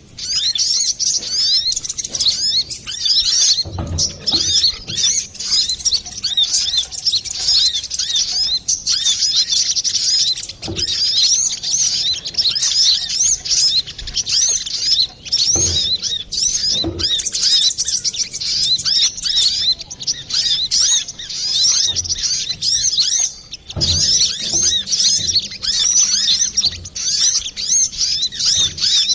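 Kolibri kelapa (brown-throated sunbird) singing a rapid, continuous string of high chirps and trills, with a couple of brief breaks. A few faint low thumps sound under the song.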